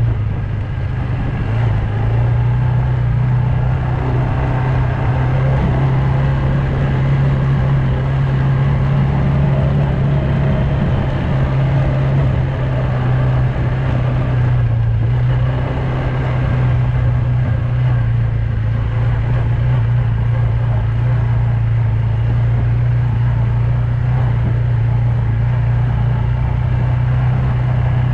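Loncin X-Wolf 300 quad bike's engine running steadily under way, a constant drone that holds at an even speed.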